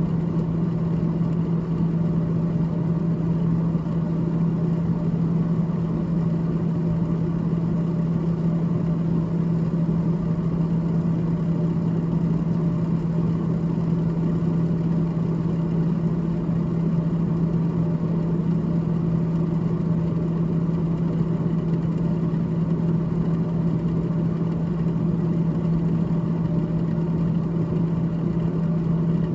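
Freezer evaporator fan of a GE GTH18XCTZRBB refrigerator running: a steady hum with one strong low tone over a rumble that does not change.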